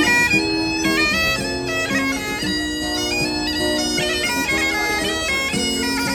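Bagpipes playing a quick melody, the notes changing several times a second.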